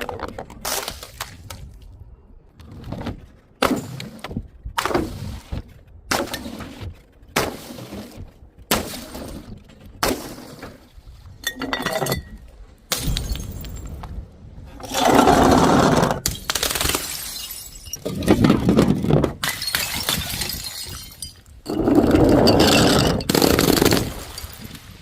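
Glass bottles and jars shattering one after another: a quick series of separate sharp crashes and tinkles for about the first half, then three longer, louder smashes with glass crunching and scattering in the second half.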